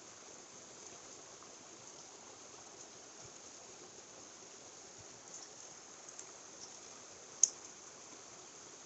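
Steady rush of a mountain stream, with one sharp click about seven and a half seconds in.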